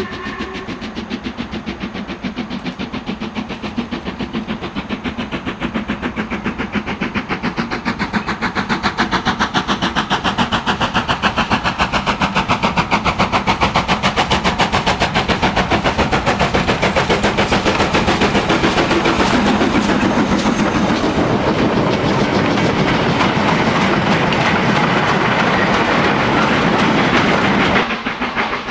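Steam locomotive working hard, its exhaust beating in a rapid, even rhythm that grows louder over the first several seconds and then holds steady. The sound drops away suddenly near the end.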